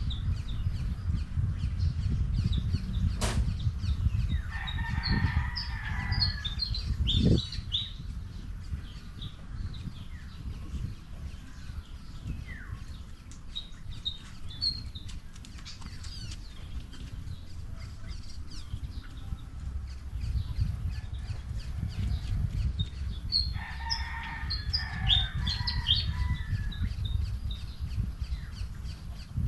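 Small birds chirping in two short bouts, about four seconds in and again around twenty-four seconds, each bout with a rustling noise under the chirps. A sharp click about three seconds in. A low rumble runs underneath.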